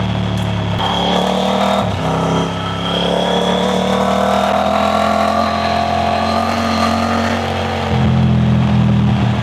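Triumph Tiger 900 Rally Pro's inline three-cylinder engine running under way. The note breaks briefly about two seconds in, then climbs slowly as revs build, and grows louder near the end.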